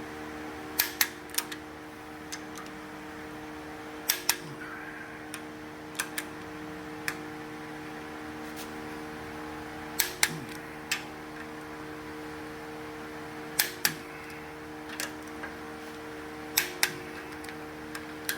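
Sharp metal taps or clicks of hand work on engine parts, mostly in quick pairs every few seconds, over a steady electrical hum.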